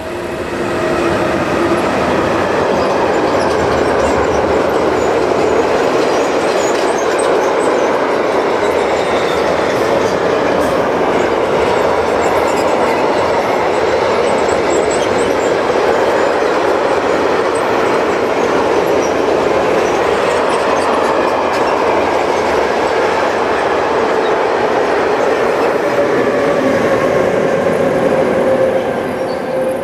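Freight train passing at speed behind two Class 185 electric locomotives, then a long rake of covered wagons running over the rails. There is a steady heavy rolling roar with faint steady tones in it. It swells about a second in and starts to fade near the end.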